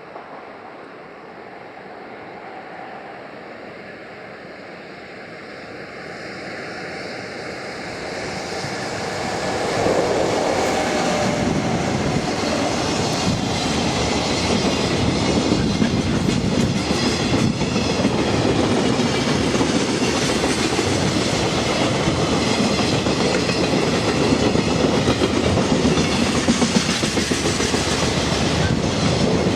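An EF66 electric locomotive hauling a freight train draws near, growing louder over the first ten seconds. The wagons then run past with a steady clickety-clack of wheels over the rail joints.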